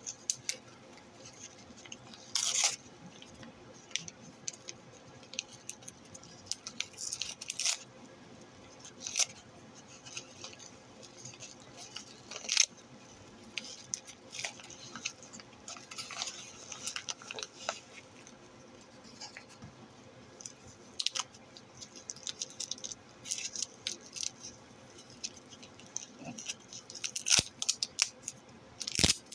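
A mailed package being opened and handled: scattered crinkling, rustling and sharp clicks of packaging, loudest about two seconds in and again near the end.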